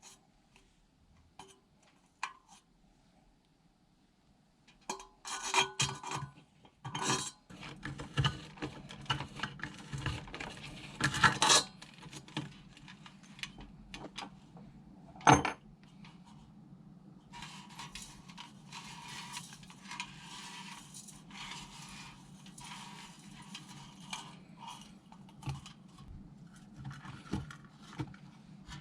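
Hand taper reamer scraping as it is turned to enlarge the air holes in a sheet-metal fire pit, with sharp metal clinks and knocks. The second half is mostly steady rasping.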